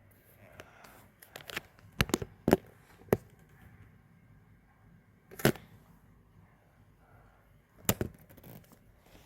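Sharp knocks and clicks of a phone being handled and bumped. There is a quick cluster of knocks about two to three seconds in, then single knocks near the middle and near the end.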